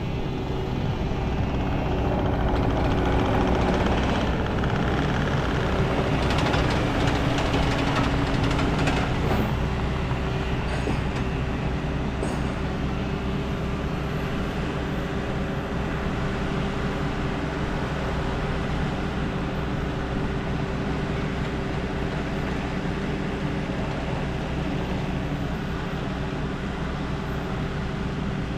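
Diesel engine of a Peterbilt 389 semi-truck running steadily, a little louder for several seconds in the first third.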